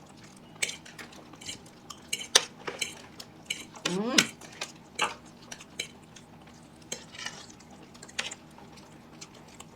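Eating utensils (chopsticks, spoon and fork) clicking and scraping against plates in scattered, irregular taps while food is scooped up. A brief vocal sound about four seconds in.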